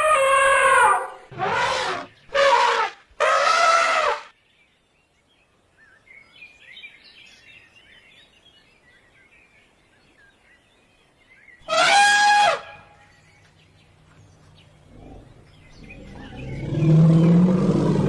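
Elephant trumpeting: a long call with a wavering pitch at the start, three short blasts over the next few seconds, and one more short blast about twelve seconds in. Faint bird chirping fills the quiet gap, and a low, steady rumble builds near the end.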